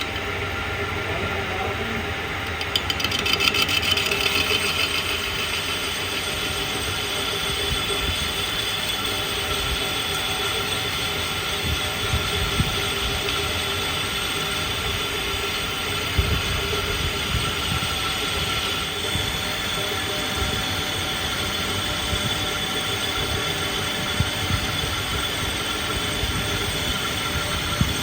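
A machine running steadily, a metallic whine made of several high steady tones over a rumbling noise, louder for a moment a few seconds in, with a few sharp clicks.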